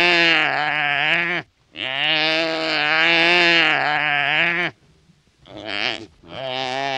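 Drawn-out, wavering bleating calls from a hoofed animal: a call of about a second and a half, a longer one of about three seconds, then two shorter calls near the end.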